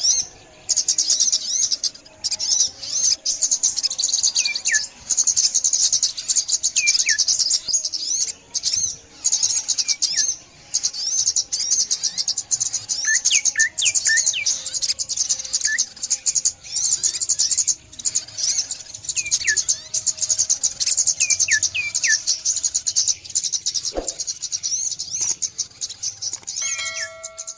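Small songbirds, sunbirds among them, twittering in dense, very high, rapid trills that come in bursts with brief pauses. Thin, short downward-sliding whistles from another bird are mixed in. Near the end there is a single sharp click.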